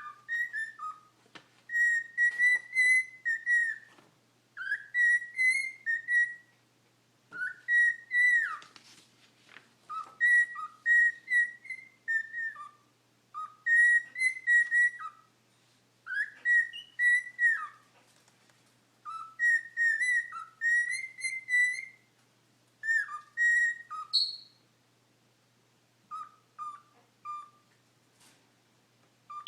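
Cockatiel whistling in short phrases of sliding, up-and-down notes, repeated again and again with brief pauses between them.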